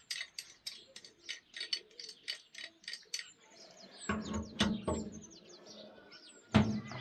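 A quick run of sharp mechanical clicks, about four a second, for the first three seconds. Then small birds chirping in short, high, falling notes, with two loud knocks: one about four seconds in and one near the end.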